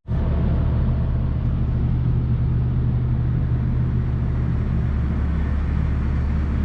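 Farm tractor's diesel engine running steadily at a constant speed, a deep even hum.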